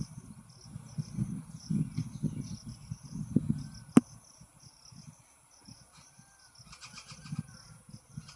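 Greater coucal calling, a series of low, repeated notes, over a steady chirring of insects. A single sharp click about four seconds in.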